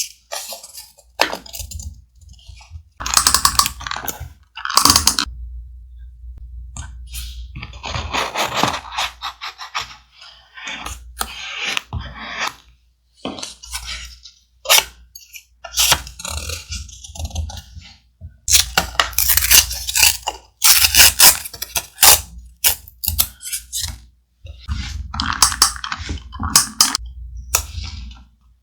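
Thick paper and scrapbook materials handled close to the microphone: irregular rustling, crinkling and small taps in short bursts with brief pauses between them.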